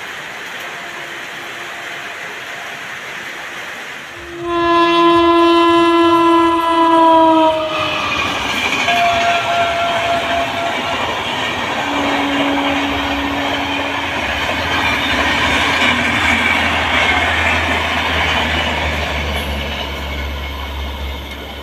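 A steady hiss, then a passenger train's locomotive horn sounds loudly about four seconds in and holds for about three seconds, sagging slightly in pitch at the end. The train then rushes past at speed with a rumble of wheels on rail and a couple of shorter, lower horn notes, loudest about halfway through and slowly fading near the end.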